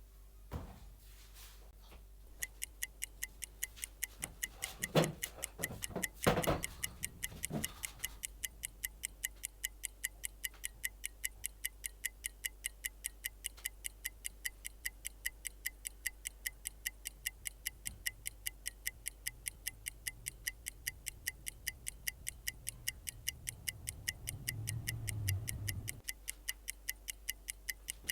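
Clock ticking fast and evenly, several sharp ringing ticks a second, starting about two seconds in. A few louder knocks or rustles come around five to eight seconds in, and a low rumble near the end.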